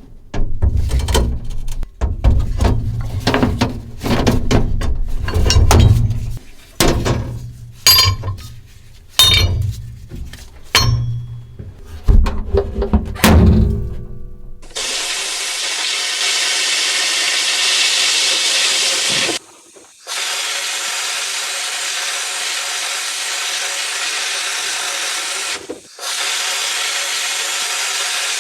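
A run of irregular knocks, clunks and metal clinks from parts being handled. About halfway through comes a loud steady hiss of compressed air from an air tool such as a sandblasting or spray gun, which stops briefly twice when the trigger is let go.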